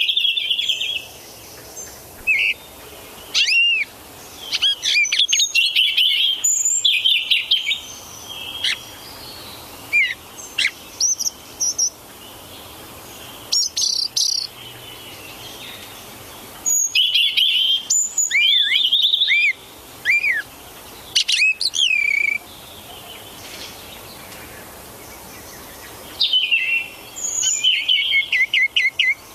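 Birds chirping in bursts of high-pitched calls, arched notes and quick trills, separated by short pauses.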